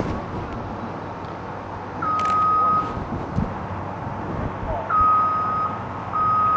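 Backup alarm of a piece of heavy demolition equipment beeping as it reverses, three beeps spaced a few seconds apart, over the low rumble of the machine.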